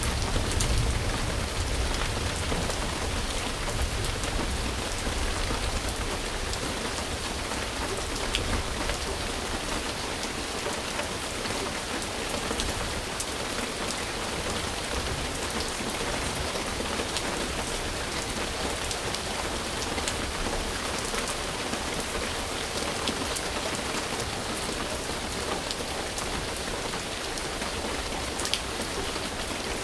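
Steady rain falling on a surface, an even hiss with scattered individual drop ticks. A low rumble under it fades away over the first few seconds.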